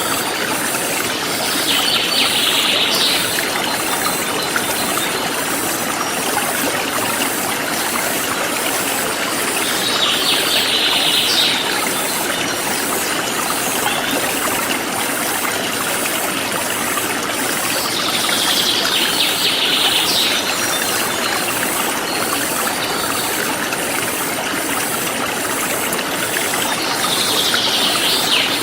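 A forest stream flowing steadily, with a high insect chirping in a fast, even pulse. Four times, about eight seconds apart, a short bird call of a second or so sounds over it.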